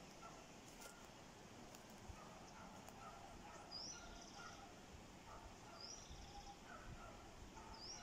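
Faint birdsong in woodland: one bird gives a short rising whistle followed by a brief buzzy trill, three times about two seconds apart, with softer, lower chirps from other birds in between.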